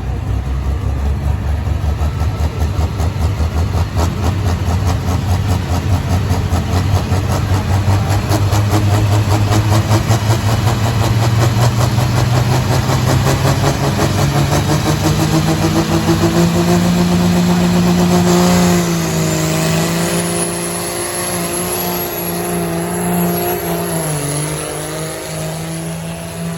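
Pulling tractor's engine at full throttle under heavy load, a loud pulsing note whose pitch slowly climbs for about eighteen seconds. Then the throttle is cut, and the engine drops suddenly to a lower, steadier note while a thin high whine rises in.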